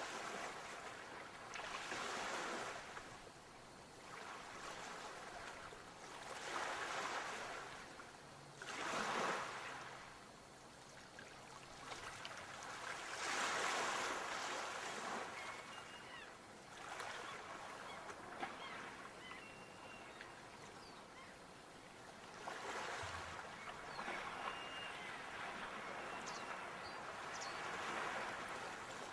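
Sea waves breaking and washing ashore in surges that rise and fall every few seconds. A few faint bird calls come in the second half.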